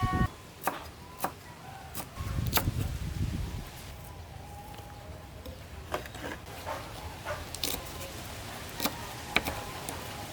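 Scattered knocks and taps of kitchen work on a wooden cutting board, irregular rather than a steady chopping rhythm, with a low rumble about two seconds in.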